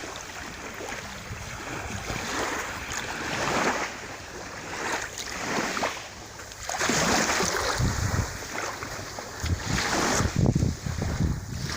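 Sea waves washing in and drawing back, swelling and fading every couple of seconds, with wind buffeting the microphone in gusts over the second half.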